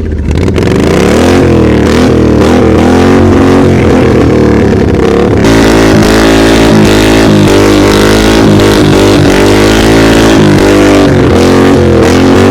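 Racing lawnmower engine running loud under way in first gear, its revs rising and falling again and again.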